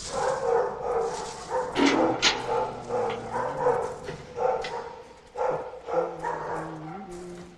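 A dog barking and yelping repeatedly, in short calls a fraction of a second apart.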